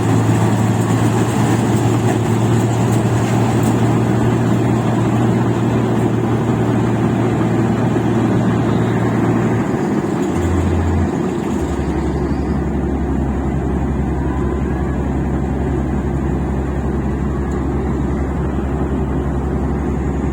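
Rice combine harvester's engine running steadily under load. About ten seconds in, its note drops to a lower, steady drone.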